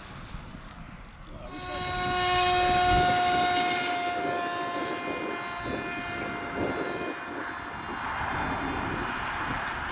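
Engine of a radio-controlled model aeroplane flying past: its steady, high-pitched tone comes in about a second and a half in, is loudest around three seconds and then slowly fades away.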